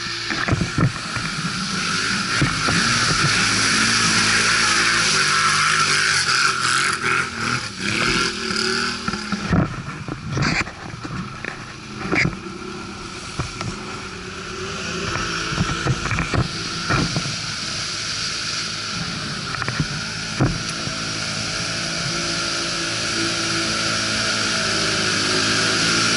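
ATV (quad bike) engine running while riding, its note rising and falling with the throttle, over a constant hiss. Several sharp knocks are scattered through it.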